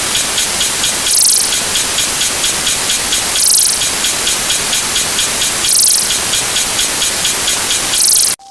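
A loud, dense wash of many stacked sound-effect copies blended into one rain-like hiss, with a bright high burst repeating about every two seconds and a fast ticking running through it. It cuts off suddenly just before the end.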